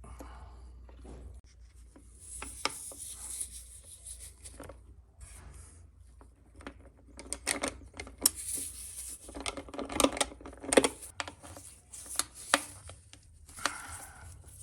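Irregular clicks, knocks and scraping of hand tools and parts being handled, loudest in a cluster of sharp knocks about ten seconds in.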